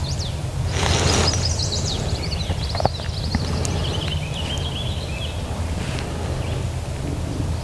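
Songbirds chirping and singing, many short high notes with a warbling phrase in the middle, over a steady low rumble. A brief noisy burst comes about a second in and a sharp click near three seconds.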